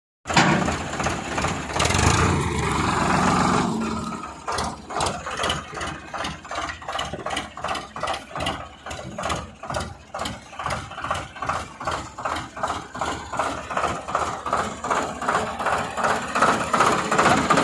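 Eicher 557 tractor's diesel engine running: loud and dense for the first four seconds, then settling into an even, pulsing throb of about two to three beats a second.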